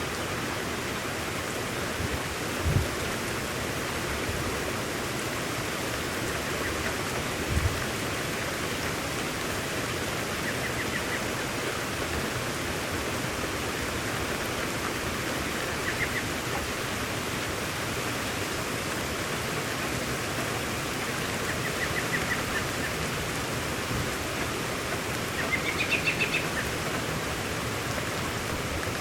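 Steady rain falling, with a bird chirping in short trills about four times in the second half and two brief low thuds in the first few seconds.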